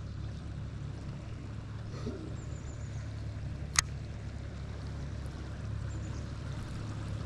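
A kayak drifting on the water: a steady low rumble with faint trickling water, and one sharp click about four seconds in.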